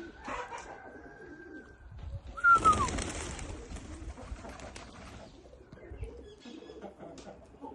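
Domestic pigeons cooing. About two and a half seconds in comes a loud, sudden noisy rush with a short falling squeak, fading out over the next two or three seconds.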